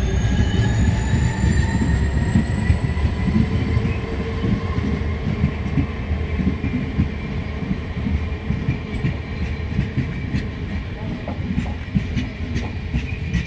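Passenger coaches of an Indian Railways express train rolling past along the platform: a dense low rumble from the wheels and bogies, with a thin high wheel squeal that rises slightly in pitch over the first few seconds. In the second half, wheel clicks over rail joints become more distinct.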